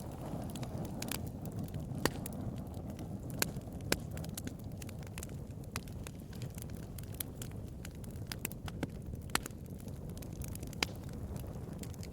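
Wood fire burning with a steady low rumble and irregular crackles, a few louder pops standing out.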